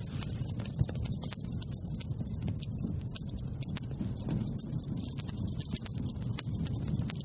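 Campfire burning: wood crackling with many small, sharp, irregular pops over a steady low rumble.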